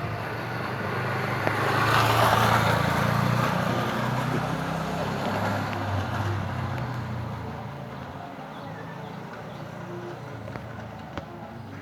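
A motor vehicle passing by: its engine hum and road noise swell to a peak about two seconds in, then fade away over the next several seconds.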